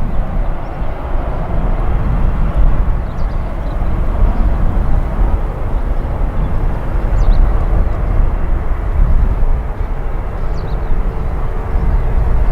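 Jet airliner engines running, a steady loud noise with a heavy low rumble.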